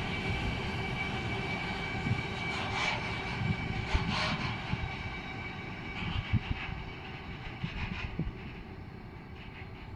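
Electric freight train rolling past, its wheels knocking irregularly over the rail joints, with a thin steady high whine that fades out about halfway. The whole sound slowly dies away as the train moves off.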